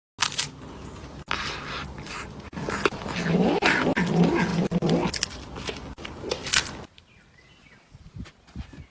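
A cat meowing in several drawn-out calls over a noisy background. About seven seconds in the sound cuts off abruptly, leaving only faint sounds.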